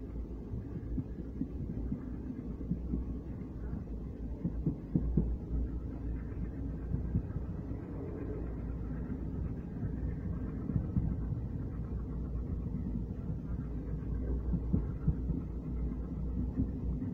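A moving train running along the track, heard from inside a coach: a steady low rumble with irregular knocks from the wheels on the rails.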